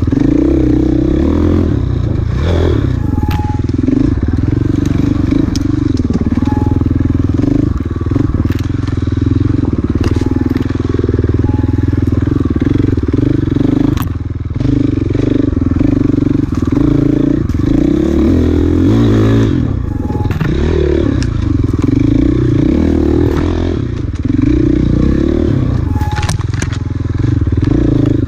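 Off-road enduro motorcycle engine running hard, its revs rising and falling constantly with the throttle and gear changes, easing off briefly around the middle and again a few seconds from the end. Sharp knocks and clatter from the bike over rough ground come through now and then.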